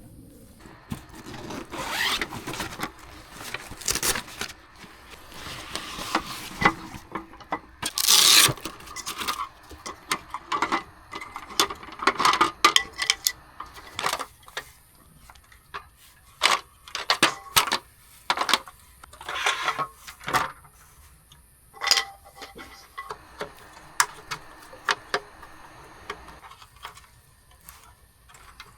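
Camping gear being handled and set up by hand: a string of irregular knocks, clicks and rubbing, with louder clatters about eight and twelve seconds in.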